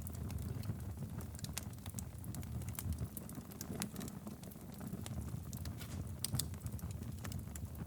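Wood fire burning steadily in a fireplace: a low, even rumble of the flames with irregular sharp crackles and pops from the burning logs.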